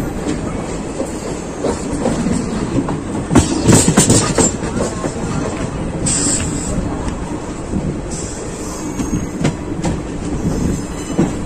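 Passenger train coach running along the track, its wheels clattering over rail joints, with a cluster of louder knocks about three and a half seconds in.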